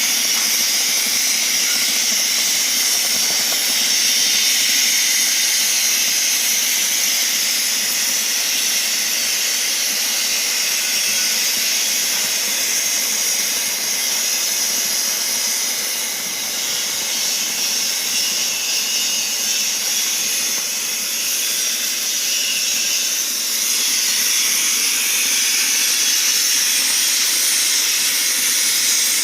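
CNC cutting torch cutting thick mild steel plate: a steady, loud hiss of the gas jet, slightly quieter for a moment around the middle.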